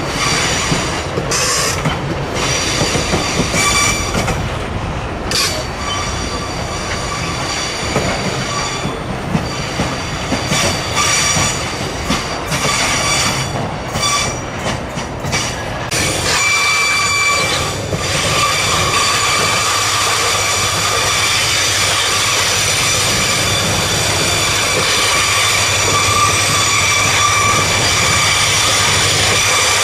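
Freight train rolling slowly through a rail yard, its steel wheels squealing on the rails in a steady high whine, with knocks and clacks from the wagons over the first half. About halfway through, a steady low hum comes in under the squeal and the whole sound grows steadier and a little louder.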